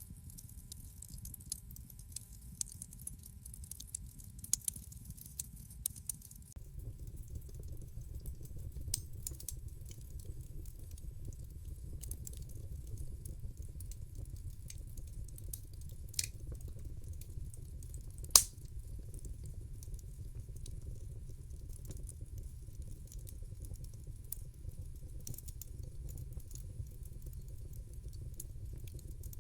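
Wood fire crackling in a fireplace: a steady low rumble of burning with scattered sharp pops and snaps, the loudest about two-thirds of the way through.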